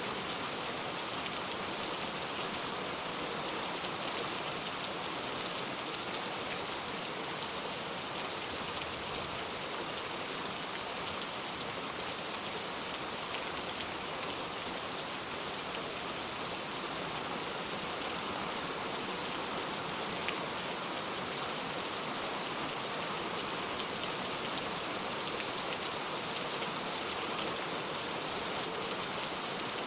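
Steady rain falling on the ground, an even hiss with scattered drops ticking.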